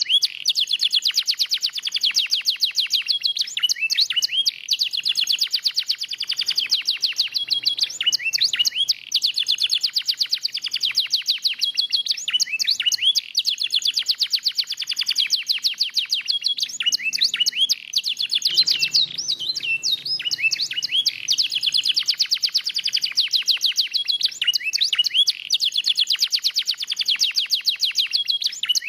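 Domestic canary in full song, singing continuously: long runs of rapid trills and chirps with only brief pauses.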